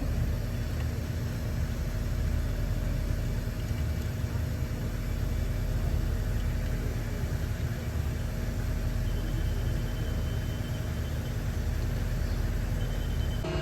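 Heavy truck diesel engine running steadily, a low, even rumble with a few faint steady tones over it, from the machinery working a concrete pour.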